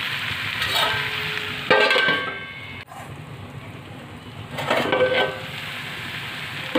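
Bitter gourd sabzi sizzling in a steel kadhai; about two seconds in a metal lid clanks down on the pan and the sizzle turns quieter and muffled. Around five seconds in the lid clatters off and the sizzling comes back, with another metal clank near the end.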